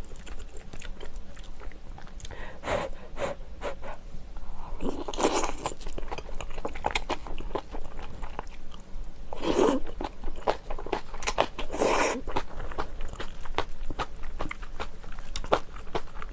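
Close-miked eating of napa cabbage kimchi and rice: a steady run of small wet crunching and chewing sounds, with louder, longer mouthfuls about five, ten and twelve seconds in.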